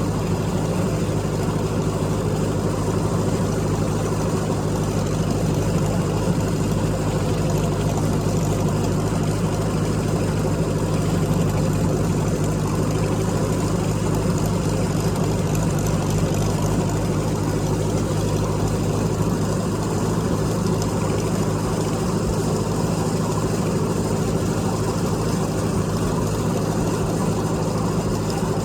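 Tractor engine running at a steady speed, a constant low drone with no changes in pitch.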